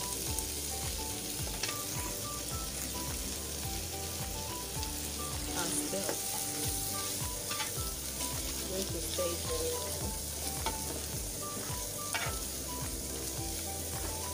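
Palm oil and tomato base with crayfish and bonga fish sizzling as it fries in a pot, a spoon stirring through it with scattered clicks and scrapes against the pot.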